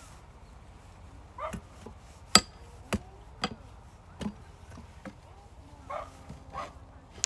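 Sharp wooden knocks of firewood being split, about five strikes with the loudest about two seconds in, and a dog barking a few short times, twice near the end.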